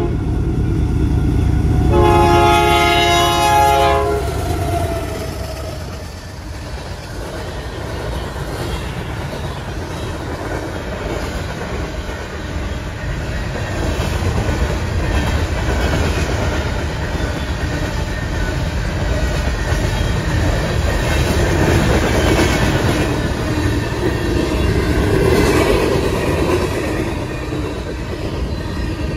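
Diesel freight locomotive sounding its air horn for about two seconds, starting about two seconds in, then the steady rumble and clickety-clack of the train rolling past.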